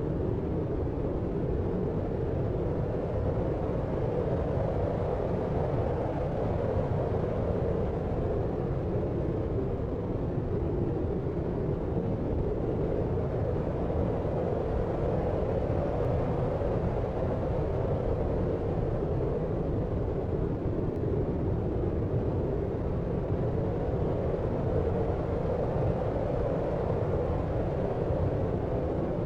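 Deep white noise for sleep: a steady, low rushing noise with most of its weight in the bass and lower mids and little hiss on top, slowly swelling and easing every several seconds.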